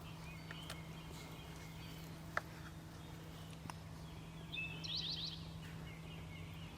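Songbirds in the field: one sings a short phrase of quick rising whistled notes about four and a half seconds in, with other birds chirping faintly around it. A single sharp click about two and a half seconds in is the loudest sound, over a steady low hum.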